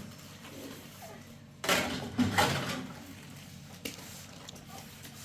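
A short clatter of hard objects knocking together, several knocks close together about two seconds in, then a single click a little later.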